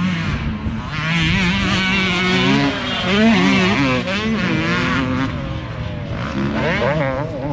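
Motocross dirt bike engines racing close together, their pitch rising and falling with throttle and gear changes as more than one bike runs the track.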